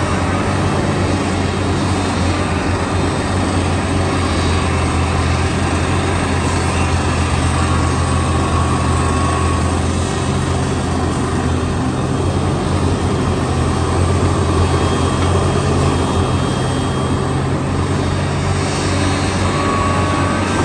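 Heavy diesel engine of a construction machine, such as a backhoe loader, running steadily with a deep, even hum.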